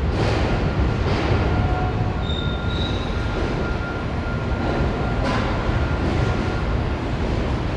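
Subway train rumbling steadily, with thin high wheel-squeal tones coming and going over the noise.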